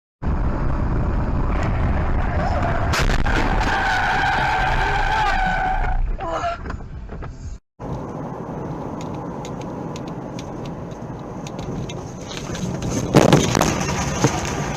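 Car road noise with a steady tyre squeal lasting a couple of seconds. After a short break, quieter car noise follows, with a loud thump near the end.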